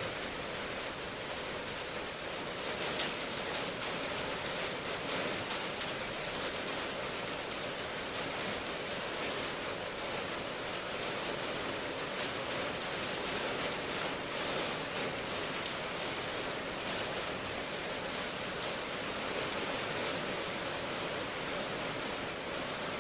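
Steady rain ambience: an even hiss of rainfall with fine pattering drops.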